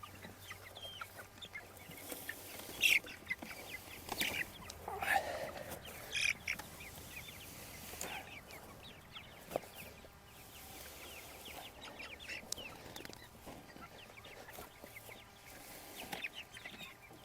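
A flock of young meat chickens cheeping and clucking while feeding: many short, falling peeps overlapping throughout, with a few louder calls now and then.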